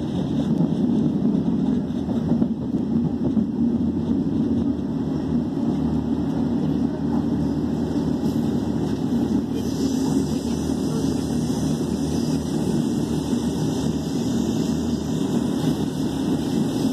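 Passenger train running at speed, heard from inside the carriage: a steady rumble of wheels on rail. A higher hiss joins in about ten seconds in.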